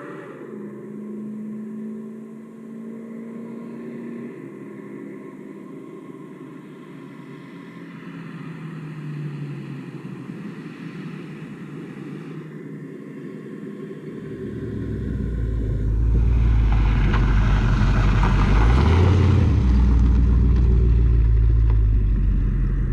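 1974 Chevy K20's 350 V8 running through true dual straight pipes with glasspack mufflers. The exhaust note is moderate at first, then grows much louder and deeper about 15 seconds in as the truck comes close, with a brief shift in pitch near 19 seconds, and stays loud to the end.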